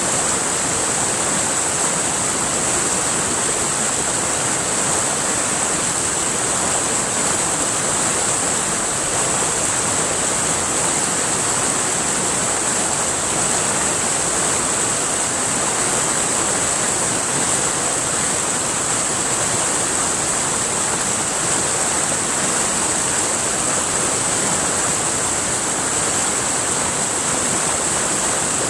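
River water rushing and splashing over rocks, a steady, unbroken rush with a bright hiss on top.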